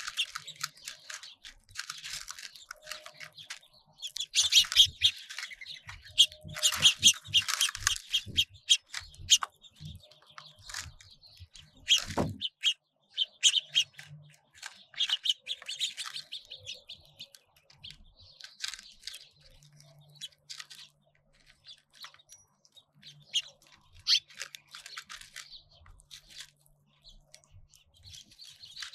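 Small songbirds at a feeder chirping and twittering, many short high calls that are thickest in the first third and thin out later. A single sharp knock comes a little before the middle.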